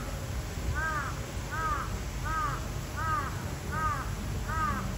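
A bird giving six harsh caw-like calls in an even series, about one every three-quarters of a second, over a low steady rumble.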